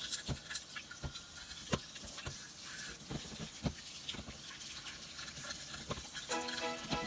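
Cleaning toothbrush scrubbing a wet, freshly boiled range-hood sirocco fan, irregular scratchy strokes with sharp clicks and taps as the fan is handled. Background music comes in near the end.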